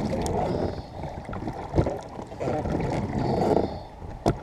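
Small rowing dinghy under way: oars working the water, with two sharp knocks about two and a half seconds apart, over wind noise on the microphone.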